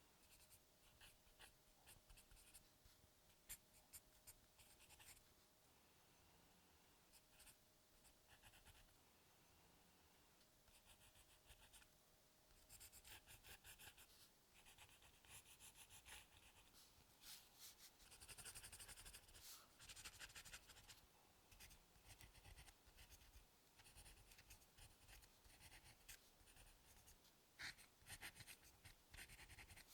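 Faint scratching of drawing strokes on paper, in runs of quick strokes with short pauses, busier in the second half.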